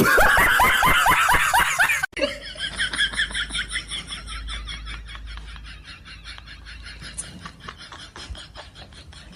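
Laughter in quick repeated bursts, loud for about two seconds. After a sudden cut, a second, longer run of laughter trails off gradually.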